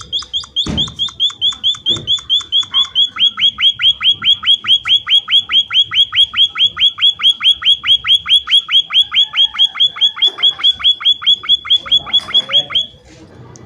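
Munia (emprit) calling: a long, rapid run of sharp down-slurred chirps, about five a second, faster for the first few seconds, then stopping abruptly near the end.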